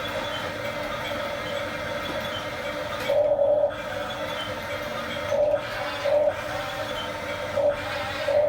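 Small electric motors and gearboxes of a remote-control toy construction vehicle whirring steadily, with five short, louder whines as a motor is driven harder, the longest about three seconds in.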